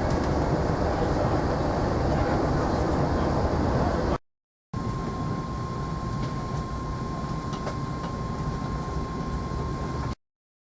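Steady train rumble, broken by a brief cut to silence about four seconds in and again just before the end. After the first cut a steady high whine runs over the rumble.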